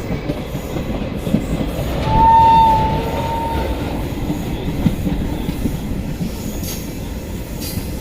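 Passenger train running, its wheels rumbling and clattering over the rails. About two seconds in, a single steady high tone sounds for about a second and a half.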